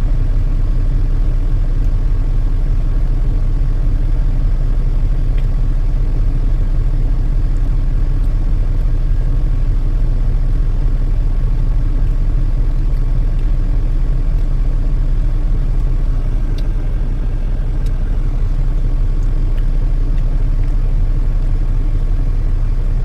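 Steady low drone of a semi-truck's engine running, heard from inside the cab, with a faint steady whine above it.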